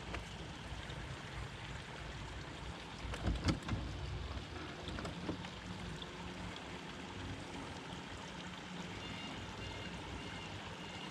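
Water sloshing and lapping around a small fishing boat, with a low wind rumble on the microphone. A few sharp knocks come about three and a half seconds in.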